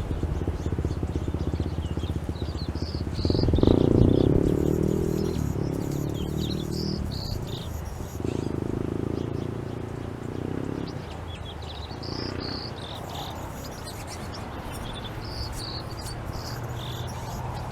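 Songbirds chirping in short, high calls scattered throughout, over a steady low hum, with a louder low rumble from about three to eleven seconds in.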